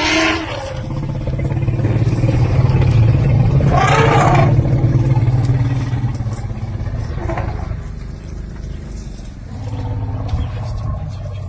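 Vehicle engine idling with a steady low hum. A brief voice-like call sounds about four seconds in, and a fainter one near seven seconds.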